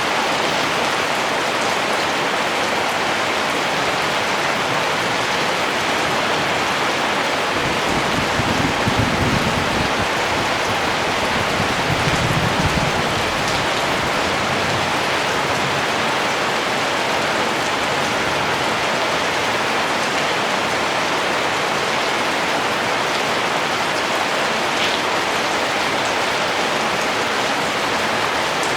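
Steady, even rain falling on surfaces, a dense continuous patter. A low rumble swells briefly twice, about eight and twelve seconds in.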